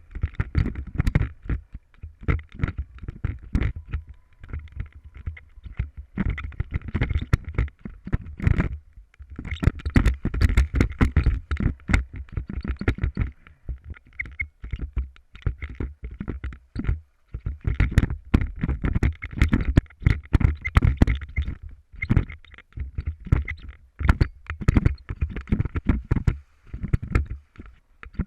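Motorcycle ride on a rough trail heard through an on-board camera microphone: low rumble and wind buffeting, broken by constant irregular knocks and rattles, briefly easing three times.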